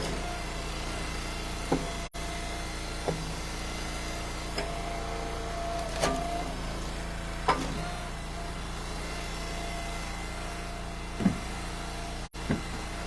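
Engine of a wood splitter running steadily, with several sharp knocks as split ash firewood pieces drop into a pickup truck bed.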